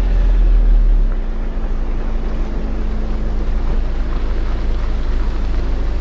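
Jeep Wrangler Rubicon driving along a dirt trail: steady engine and tyre rumble with wind buffeting the microphone, the low rumble heaviest in the first second.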